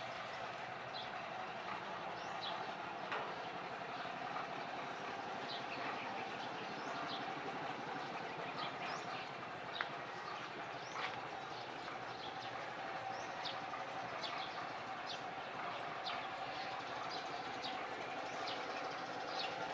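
Small birds chirping in short, high calls every second or so, over a steady background hum.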